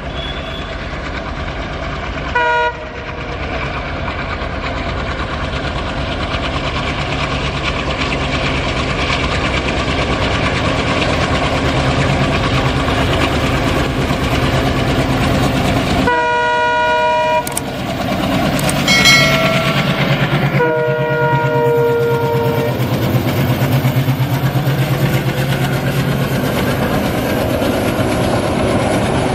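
Train horn sounding four times, the longest about two-thirds of the way through, over a steady rushing noise of a train running.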